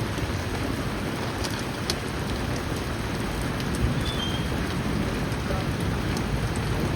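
Heavy rain falling steadily, with a few scattered sharp drop ticks.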